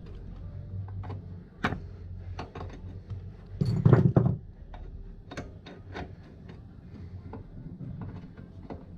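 Metal hand tools and parts clicking and knocking irregularly during work on an ATV wheel hub, with a louder clatter about four seconds in.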